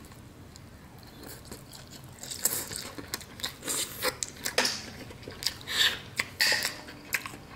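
Close-up eating sounds of snow crab meat being chewed and sucked: irregular wet smacks and clicks that begin about two seconds in.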